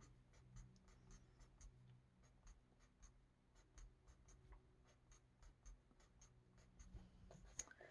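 Faint marker strokes on paper: a felt-tip colouring marker tapping and rubbing across a colouring-book page in short strokes, roughly four a second.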